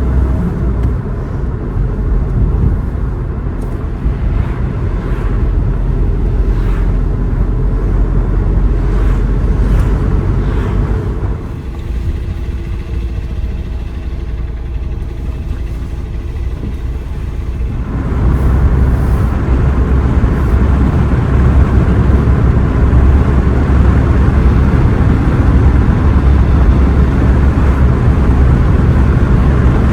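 Road vehicle driving: a steady rumble of engine and road noise. It eases about 12 s in, then comes back louder and fuller at about 18 s.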